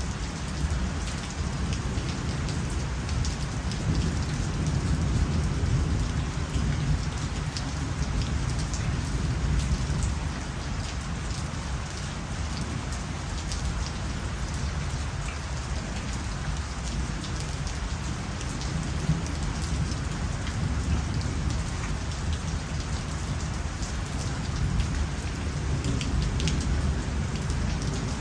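Steady rain falling, with a dense low rumble underneath and many individual drops ticking through it.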